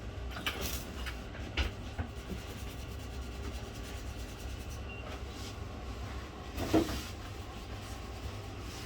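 Light handling clicks and knocks as small parts and tools are moved on a repair bench, with one louder knock near the end, over a steady low hum.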